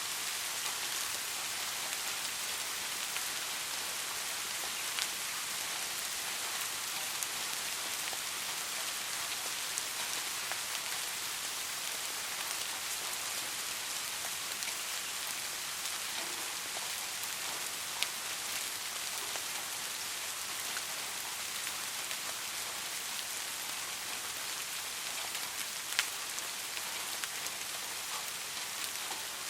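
Steady soft rain falling, an even hiss with scattered individual drops ticking sharply now and then, a few louder ones standing out.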